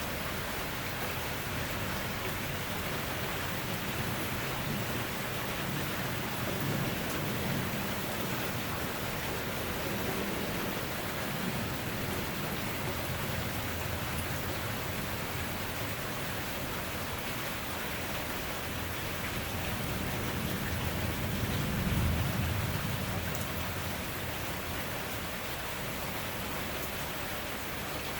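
Steady rain falling, with low rumbles of thunder through it; the loudest thunder rolls about three-quarters of the way through.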